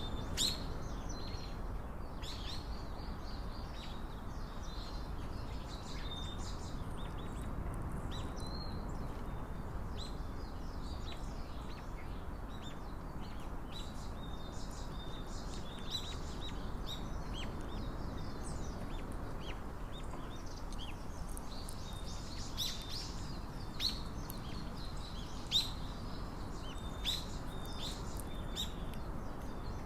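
Small birds chirping now and then in short high notes, over a steady low background noise.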